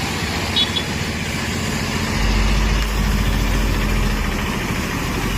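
Heavy truck engine running with a steady low rumble that swells about two seconds in, with a brief high chirp about half a second in.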